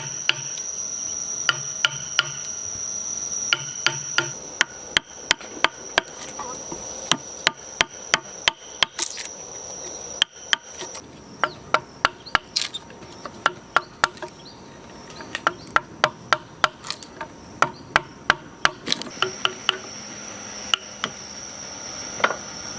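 Repeated sharp knocks of hand-tool work, hammering or chopping, coming in runs at about two to three strikes a second. Under them a steady high-pitched insect drone, which drops out about halfway and returns near the end.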